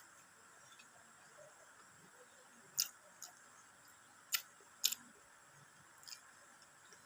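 Eating sounds: about five short, sharp clicks at irregular intervals over faint room hiss, the mouth and utensil noises of someone eating a meal.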